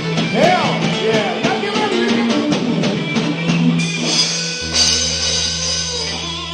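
A live rock band playing, with electric guitar, bass and drum kit. There are bending guitar notes and quick cymbal strokes in the first few seconds, then held notes.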